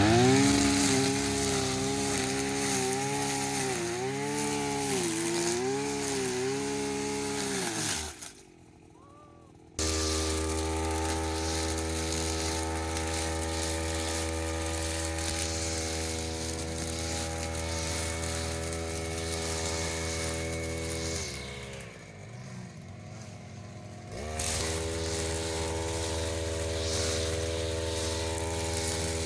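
Two-stroke engine of a brush cutter (motorised scythe) running. For the first eight seconds its revs rise and fall in waves. It breaks off briefly, then runs steady at high revs, with a short drop a little after twenty seconds.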